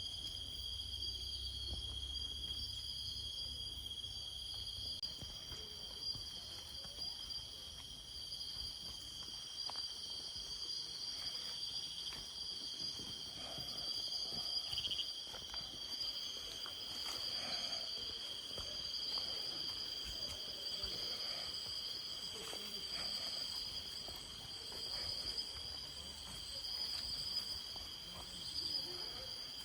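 Night-time chorus of forest insects: a steady, high-pitched trilling at two pitches that runs on without a break.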